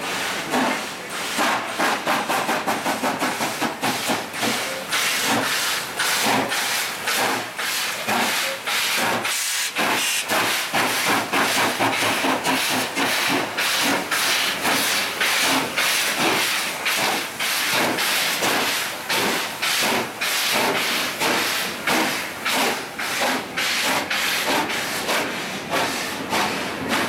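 Steam locomotive pulling away, exhaust chuffing in regular beats over a steady steam hiss. About two seconds in the beats come in a quick run as the driving wheels slip, then settle back into a slower, even rhythm.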